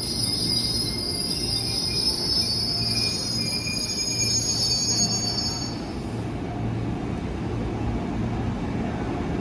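A JR 205-series electric commuter train rolling slowly alongside the platform as it brakes, with a steady high-pitched squeal that cuts off about six seconds in as the train comes to rest. A low rumble and hum carry on after the squeal stops.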